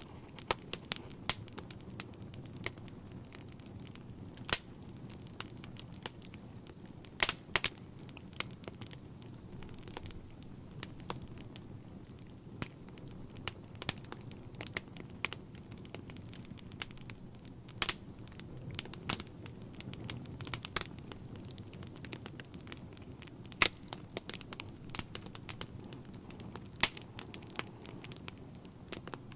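Wood fire burning in a fireplace, crackling with dense irregular pops and a few louder snaps over a low steady rumble of the flames.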